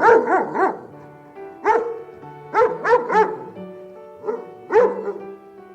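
A dog barking in short, repeated barks, a few at a time about every second, over background music with sustained notes.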